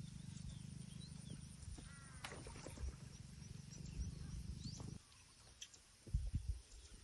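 Birds calling, with scattered short high chirps and a harsher, falling caw-like call about two seconds in, over a steady low rumble that cuts off about five seconds in; a few low thumps follow near the end.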